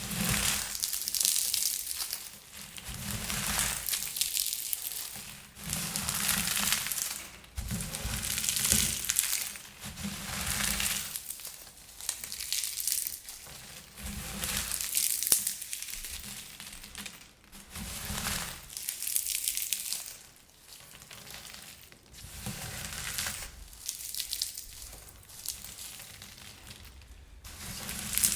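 Air-popped popcorn being crushed in the hands: repeated crunching and crackling squeezes, each a second or two long with brief pauses between.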